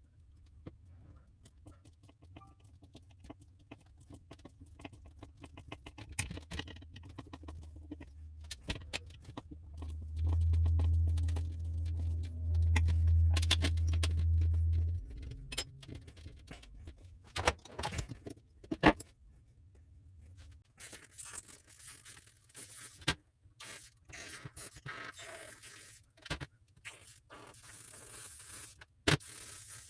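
Small metallic clinks, taps and scrapes of hand work on engine parts throughout. A low hum comes in for about five seconds near the middle and is the loudest sound. A hissing noise joins in the last third.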